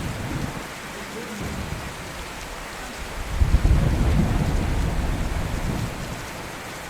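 Steady rain falling, with a low roll of thunder that breaks in about three seconds in and rumbles away over the next few seconds.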